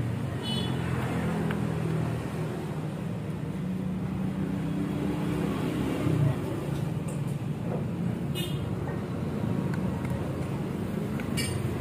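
Steady low rumble of vehicle engine or traffic noise in the background, with three light metallic clinks of small metal engine parts being handled while a part is tried into place.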